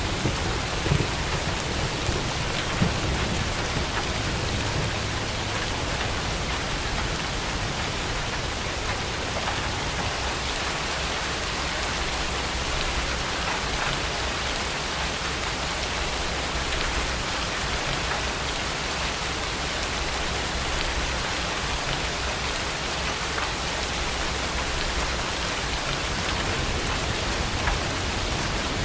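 Heavy rain pouring steadily, with a low thunder rumble dying away in the first few seconds.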